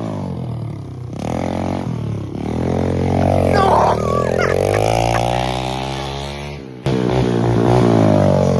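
Small pit bike engine revving up and down as it is ridden, its pitch rising and falling repeatedly, with an abrupt break and restart about seven seconds in.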